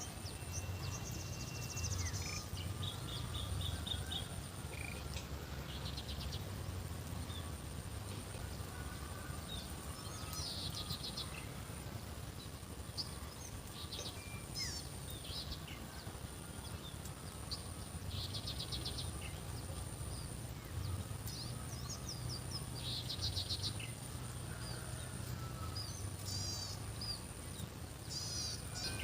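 Outdoor ambience: several birds chirping and trilling on and off over an insect's steady, very high-pitched buzz. A low rumble runs underneath.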